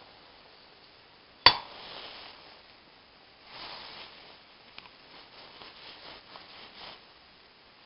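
A single sharp metallic clink with a short ring about a second and a half in, then soft rustling and a run of small light ticks as metal parts are handled.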